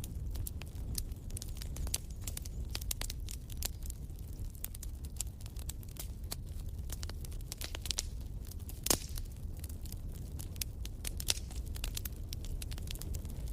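Wood fire crackling and popping over a steady low rumble, with one louder pop about nine seconds in.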